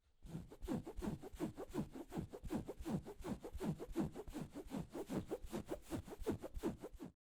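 Rapid, even back-and-forth scraping strokes, about four to five a second, each sliding down in pitch, with a household object worked against a surface; it starts just after the opening silence and stops abruptly near the end.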